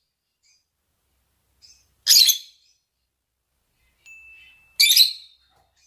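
Lovebirds giving mating calls: two loud, shrill shrieks about two and a half seconds apart, the second preceded by a brief steady whistled note, with faint chirps between them.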